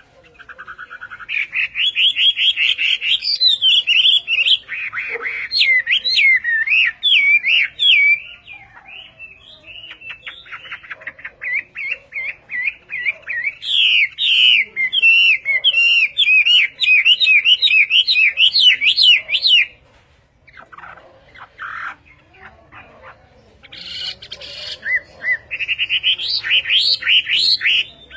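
Hwamei (laughingthrush) singing loud, fast, varied whistled phrases and trills in three long bouts, with short pauses between them.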